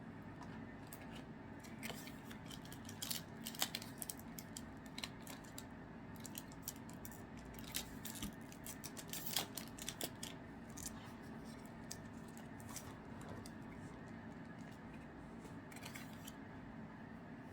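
Trading cards and a foil pack wrapper being handled and flipped through: a run of short, faint clicks, snaps and rustles, busiest in the first half, over a low steady room hum.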